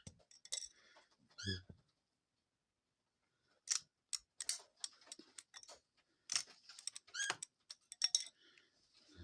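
Clicks and knocks of a dove handling and dropping small sticks in its cage, coming in uneven runs after a short pause. A few short, high chirp-like squeaks near the start and about seven seconds in.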